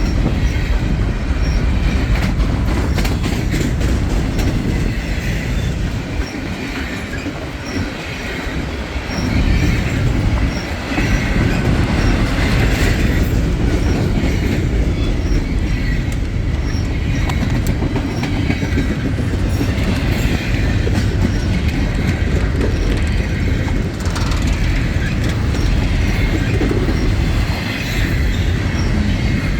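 Freight train rolling steadily past, its cars rumbling, with wheels clacking over rail joints and some wheel squeal.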